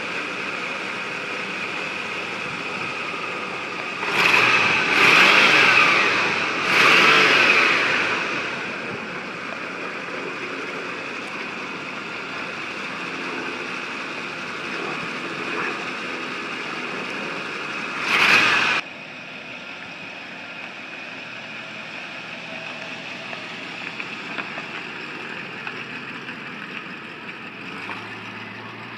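1971 Ford Thunderbird's V8 engine idling steadily, revved up three times in quick succession about four to eight seconds in and once more briefly around eighteen seconds; after that last blip it idles quieter.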